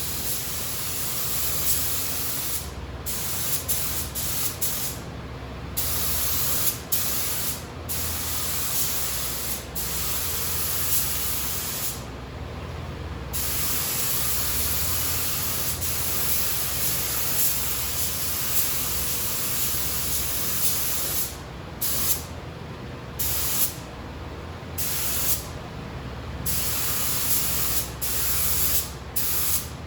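Paint spray gun hissing in long passes as a coat of paint goes on, the hiss cutting off briefly many times as the trigger is released between strokes. A steady low hum runs underneath.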